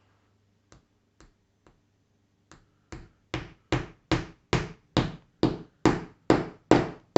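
Hammer driving a small nail into a wooden kit piece: a few light taps to set it, then a steady run of harder blows, about two and a half a second, growing louder.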